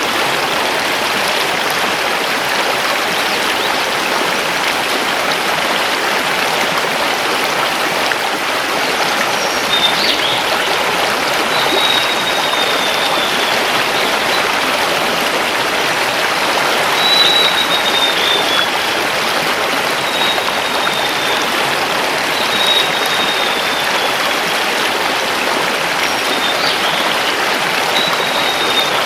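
Mountain river flowing over stones: a steady rushing of water. From about ten seconds in, a forest bird repeats short, high notes that slide slightly downward, one every few seconds.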